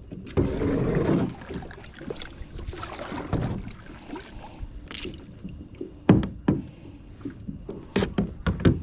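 Water sloshing and hollow knocks against a plastic kayak hull while a hooked squid is brought in on light tackle; a rush of water noise in the first second or so, then scattered sharp knocks, the sharpest about six seconds in and several near the end.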